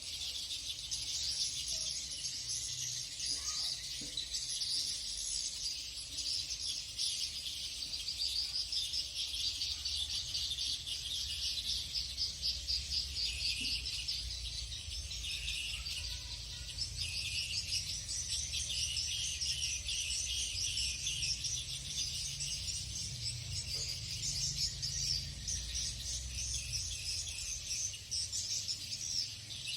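Edible-nest swiftlets twittering: a dense, unbroken chorus of rapid pulsed chirps, over a low rumble.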